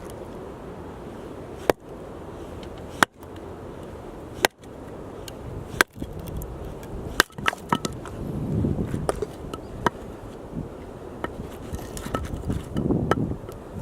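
Axe chopping firewood: five sharp strikes about a second and a half apart, followed by several lighter knocks and some low rumbling.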